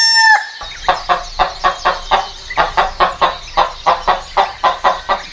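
Chicken clucking in a steady run of short clucks, about four a second. It follows the held end of a rooster's crow in the first half second.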